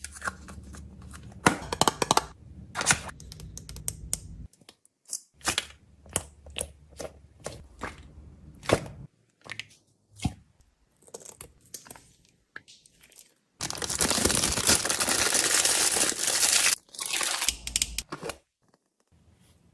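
Snack packaging being handled and torn open: a run of crinkles, rustles and small clicks, then a loud continuous tearing rustle about two-thirds of the way in that lasts about three seconds. A shorter rustle follows, and it goes nearly quiet near the end.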